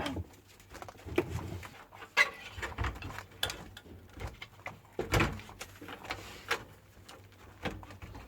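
Irregular clicks, taps and knocks of small parts and tools being handled during a microwave oven repair, with the loudest knocks about two and five seconds in.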